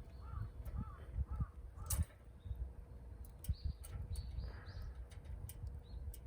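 Birds calling: a run of short, arched calls about twice a second in the first two seconds, then brief high chirps in the middle and again near the end. Scattered sharp clicks sound among the calls.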